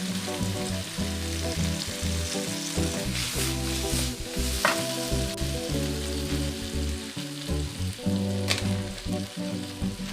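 Sliced zucchini and onion sizzling in hot oil in a frying pan as they are stir-fried, with a few sharp scrapes or taps of the utensil against the pan around the middle and again near the end.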